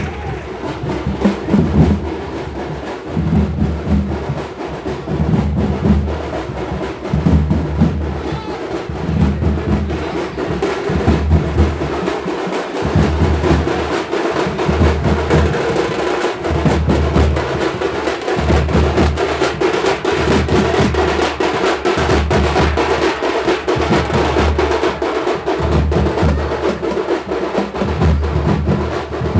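Drums played in a steady rhythm, deep beats about once a second over a continuous higher-pitched musical drone.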